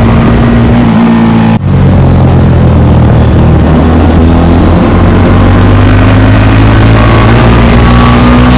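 Motorcycle engine with a loud modified exhaust, running loud and steady, its note rising slowly in pitch through the second half. There is a brief break in the sound about one and a half seconds in.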